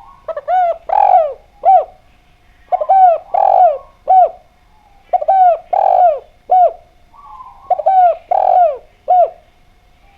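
Spotted dove (derkuku) cooing: four repeated call phrases about two and a half seconds apart, each a quick run of falling coos ending in a short final note.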